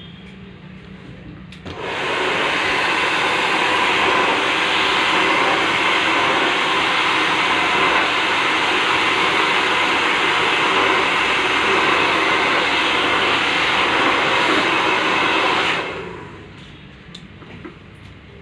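Handheld hair dryer blowing with a steady whoosh as it is used for blow-dry styling. It switches on about two seconds in and runs evenly, then switches off and dies away a couple of seconds before the end.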